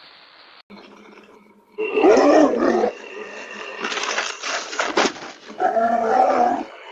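An animal growling and calling loudly in two bouts, with a noisy scuffle between them and a sharp knock about five seconds in.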